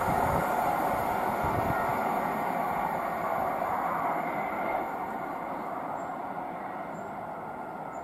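Greater Anglia Class 720 electric multiple unit running away along the line, its wheel and running noise fading steadily.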